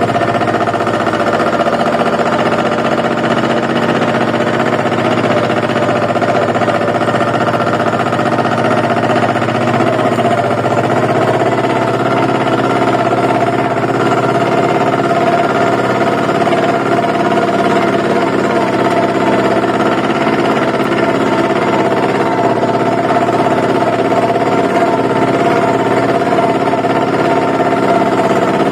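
Compact tractor engine running steadily, its note shifting a little about ten seconds in.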